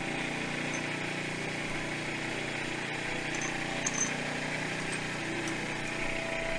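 A machine running with a steady, even drone and a constant hum, plus a faint light click about four seconds in.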